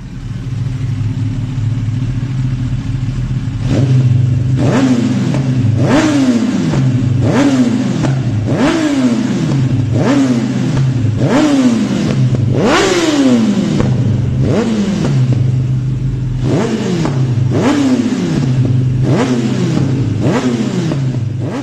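Kawasaki ZX-10R inline-four engine idling steadily, then blipped about a dozen times through its aftermarket exhaust, roughly one every one and a half seconds. Each blip jumps up sharply and falls back to idle.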